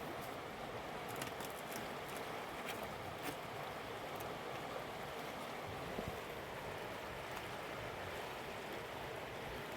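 Mountain river flowing steadily over rocks, with a few faint clicks on top.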